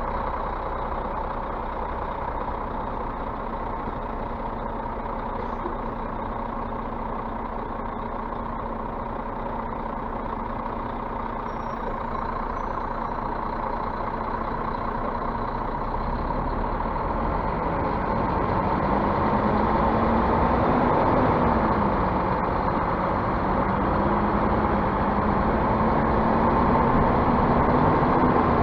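Scania bus diesel engine running steadily. About halfway through, its speed dips, rises and keeps shifting, and the sound gets louder.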